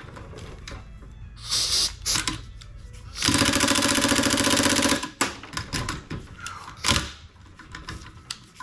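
Impact wrench hammering on a rusted exhaust manifold bolt for about two seconds, a few seconds in, with a 14 mm socket driven onto a worn 9/16 bolt head; the bolt does not come loose. Clicks and clanks of tools on metal come before and after.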